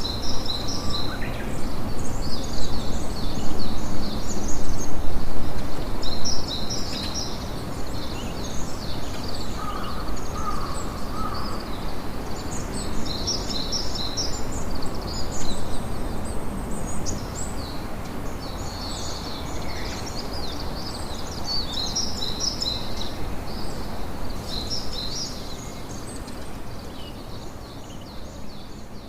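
Campfire crackling steadily, with birds chirping in repeated short bursts of high calls throughout.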